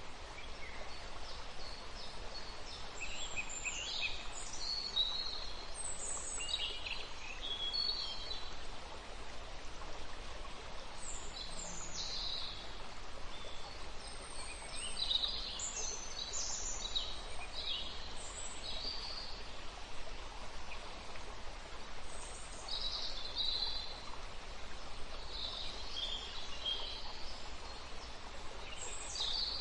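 Several birds chirping in short, high calls, scattered irregularly throughout, over a steady background hiss.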